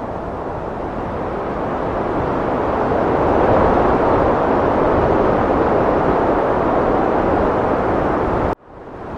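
Heavy wind blowing, a loud, even rushing that swells over the first few seconds and then holds steady. Near the end it cuts out abruptly and comes back within half a second.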